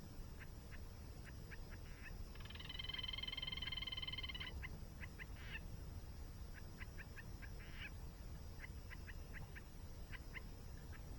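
Birds calling faintly: repeated runs of short chirps, each run ending in a brief rougher note, with one longer buzzy call from about two seconds in that lasts about two seconds. A low steady rush of falling water underneath.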